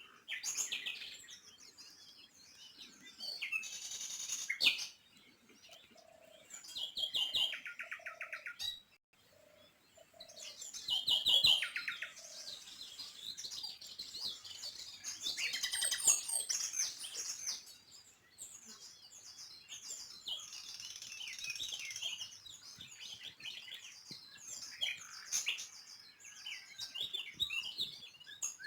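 Several small birds chirping and trilling, with overlapping high calls throughout. A short series of lower, evenly spaced notes sounds a few seconds in.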